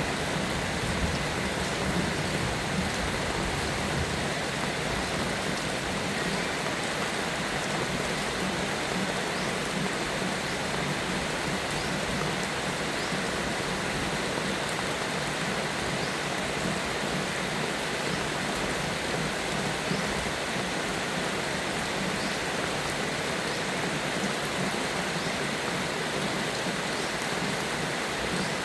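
Steady, even rainfall with no let-up.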